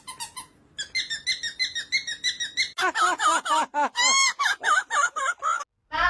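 Parrot calling in quick repeated notes: first a fast run of short chirps, then a louder string of swooping notes, about five a second, that stops abruptly near the end.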